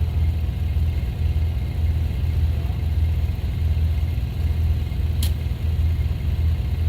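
Gasoline vehicle engine running steadily, a low rumble that swells and fades in a regular rhythm. A single sharp click about five seconds in.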